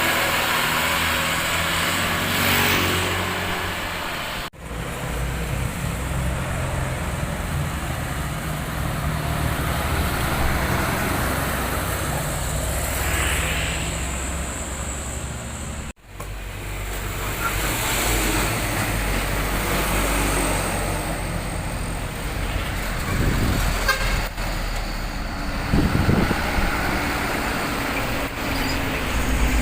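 Road traffic: heavy trucks' diesel engines running with other vehicles passing, and horns tooting. The sound drops out briefly twice, about four and a half seconds in and again about sixteen seconds in.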